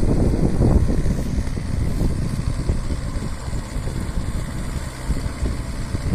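VST Shakti MT270 mini tractor's diesel engine running steadily with a low rumble.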